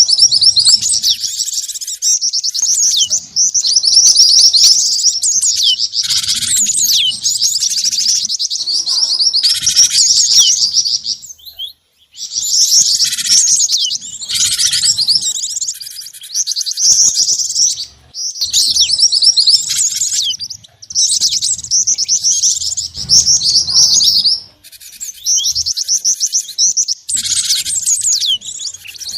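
Bird-lure recording combining the calls of the cinereous tit (gelatik batu), the black-winged flycatcher-shrike (jingjing batu) and the mantenan. It is dense, rapid, high chirping in runs of a few seconds with short breaks between them.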